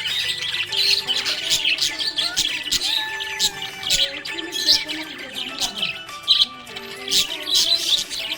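A flock of pet budgerigars chirping and warbling continuously, a rapid stream of short high chirps.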